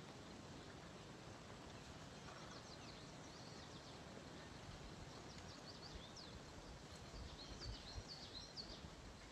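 Faint outdoor riverside ambience: steady low background noise with scattered bursts of small birds' high, quick chirps, the busiest stretch near the end.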